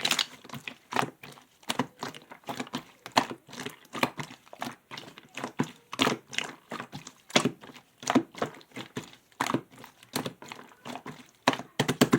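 Clear slime being squeezed, pressed and folded by hand, giving a run of quick, irregular clicks and crackles.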